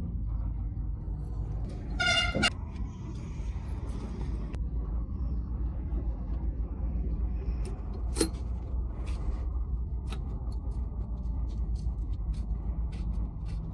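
A vehicle horn sounds once, briefly, about two seconds in, over a steady low rumble. Later comes a scattered series of sharp clicks and light taps.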